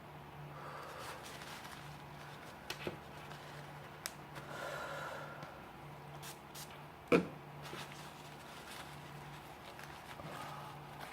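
Small metal parts of a disassembled Leatherman Wingman multi-tool being handled: scattered light clicks and stretches of rubbing or scraping, with one sharper click about seven seconds in.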